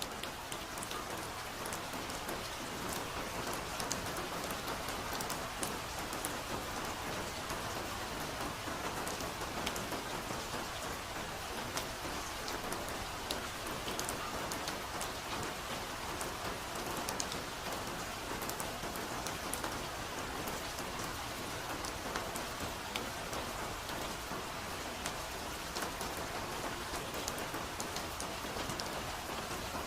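Steady soft rain falling in a forest, a dense even patter with many small drops ticking on leaves and surfaces.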